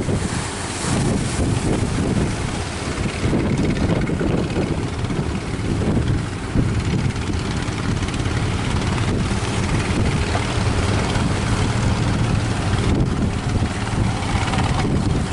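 Strong wind buffeting the microphone over the steady drone of a fishing boat's engine.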